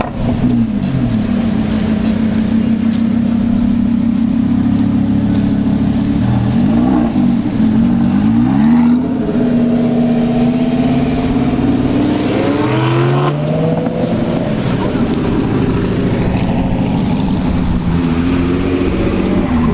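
Car engine idling with throttle blips. The note swoops up and down a few times around seven to eight seconds in and climbs in a rev at about thirteen seconds.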